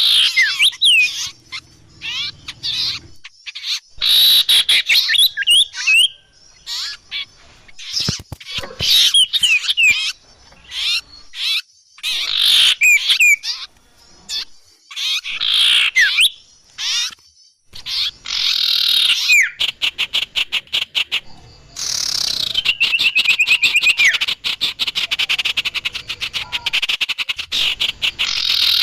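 Bird calls played as a trapping lure: clusters of sharp high chirps with quick falling whistled notes. About two-thirds of the way in they give way to a fast rattling trill and dense continuous chatter.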